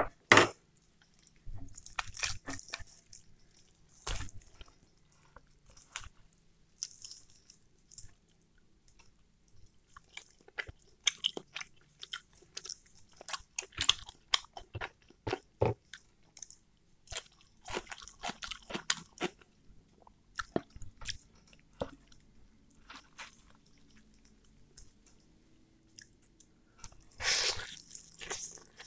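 Chewing and wet mouth smacks of a man eating roast chicken with his hands, coming as irregular short smacks and crunches, with a louder stretch of biting into a chicken leg near the end.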